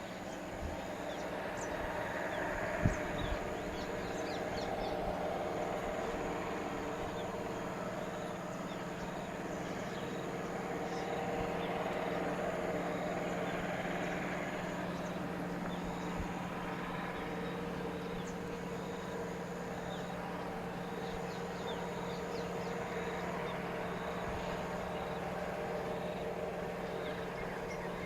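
Outdoor ambience of many small bird chirps scattered throughout, over a low steady hum and slow swells of background noise.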